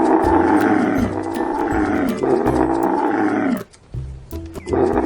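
Camel bellowing: three long, drawn-out calls, each dropping in pitch at its end, with a short pause before the third. Light background music plays beneath.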